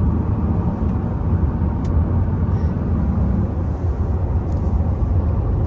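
A moving car, heard from inside the cabin: a steady low rumble of engine and tyres on the road, with one faint tick about two seconds in.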